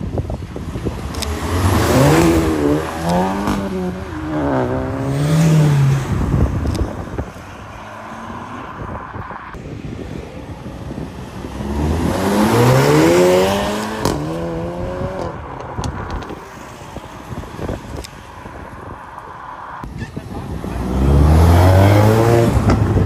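Performance cars accelerating away one after another, each engine's pitch rising as it pulls off. A Volkswagen Golf GTI revs up through several rises early on, a Cupra Leon estate accelerates about halfway through, and near the end a Ford Mustang revs, the loudest and deepest of the three.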